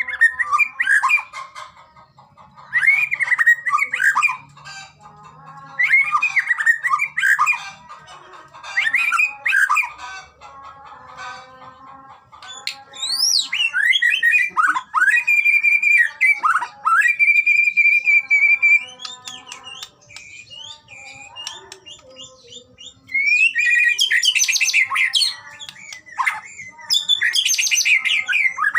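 White-rumped shama (murai batu) singing: loud, varied phrases of rising and falling whistles, held notes and fast chattering trills. The phrases come in bursts a few seconds apart, with a longer unbroken run of song in the middle.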